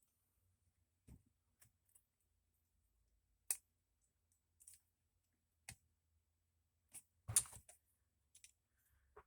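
Scattered sharp clicks and taps of small metal folding-knife parts being handled and fitted during assembly. The loudest comes a few seconds in, with a quick cluster about seven seconds in.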